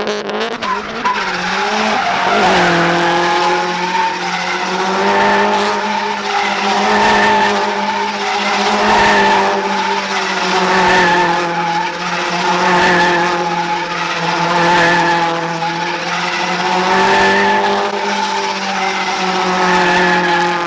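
Straight-piped Subaru STI's turbocharged flat-four held at high, steady revs while the car spins donuts, with tyres skidding and squealing. The revs climb over the first couple of seconds, then the sound swells and fades about every two seconds as the car circles.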